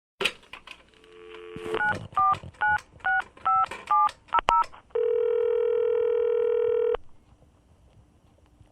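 Touch-tone telephone being dialed: a few clicks, a short dial tone, then about eight quick keypad tones. A steady ringing tone on the line follows for about two seconds and stops.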